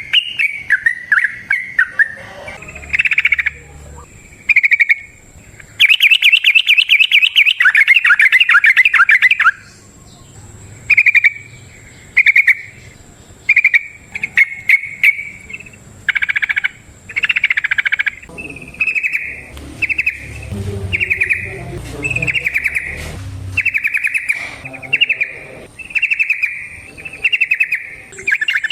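Yellow-vented bulbul singing: short bubbly, warbling phrases repeated again and again, with one long rapid run of about three and a half seconds about six seconds in.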